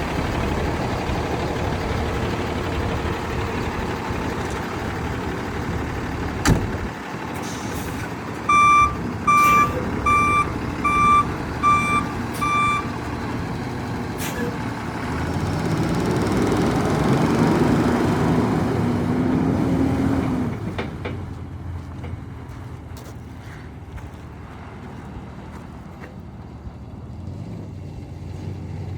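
Diesel engine of a 2012 Peterbilt 337 truck running steadily. About 8.5 seconds in, six evenly spaced electronic warning beeps sound. Around 16 to 20 seconds the engine note rises and falls, then it runs quieter with a few light clicks.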